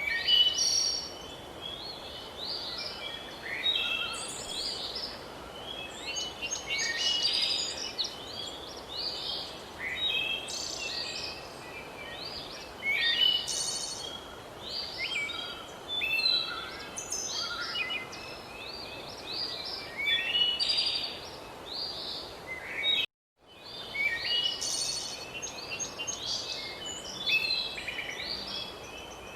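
Many birds chirping and singing in quick, overlapping short phrases over a steady background hiss; the sound cuts out completely for a moment about three-quarters of the way through.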